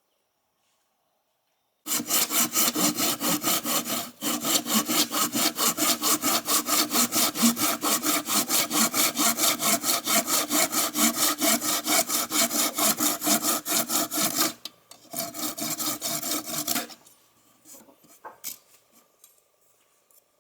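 A saw cutting wood in quick, even strokes, about five a second. It starts about two seconds in and runs for some twelve seconds, then pauses briefly for one more short run of strokes, then a few faint knocks.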